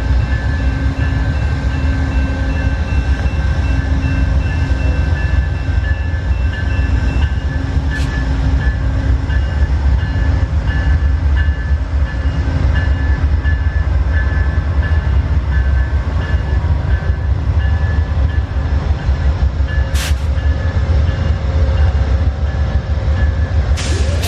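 Amtrak passenger train rolling past on the rails: a steady, loud rumble of wheels with a thin high whine over it, and a couple of sharp clicks.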